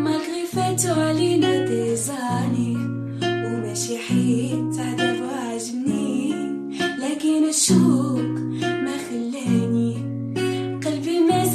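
A voice singing a song over guitar accompaniment, with sustained bass notes that change every second or two.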